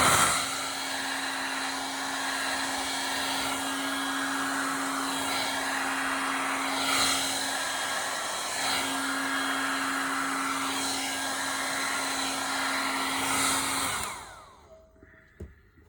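Handheld hairdryer running steadily, its fan blowing with a constant hum under the rush of air. It switches off near the end and winds down, followed by a small click.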